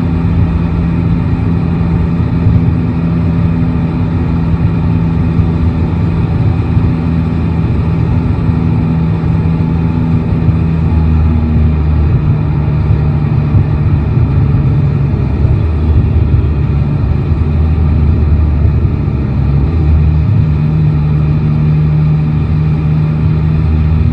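Yamaha Tracer 9 GT motorcycle engine running at low, steady revs, its pitch shifting a couple of times as the speed changes.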